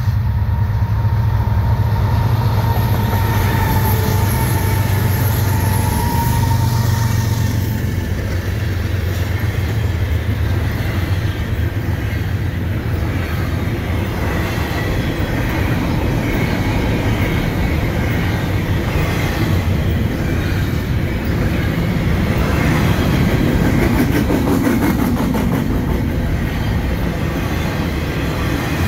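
Canadian National diesel-electric freight locomotives (two EMD SD70M-2s and a GE ES44DC) running past, with a steady low engine drone for about the first eight seconds. This gives way to the rumble and clickety-clack of double-stack intermodal well cars rolling by on the rails.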